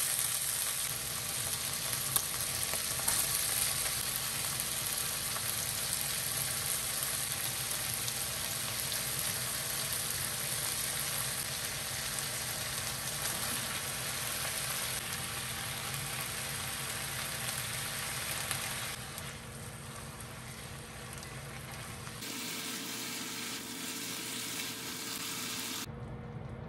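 Chicken pieces, and then chopped vegetables, sizzling steadily as they fry in a frying pan, stirred with a silicone spatula. The sizzle grows quieter about three-quarters of the way through, and the sound changes suddenly twice near the end.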